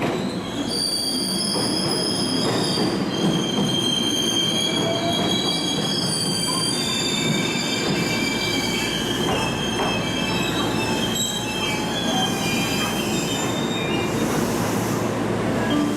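Train wheels squealing against the rails: several high, steady tones that come and go and change pitch, over the low rumble of the train rolling slowly past.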